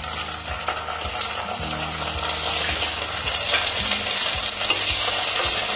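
Cubed potatoes and ginger-cumin paste sizzling in hot mustard oil in a nonstick wok while a wooden spatula stirs and scrapes them. The sizzle gets louder in the second half as the paste is worked into the oil.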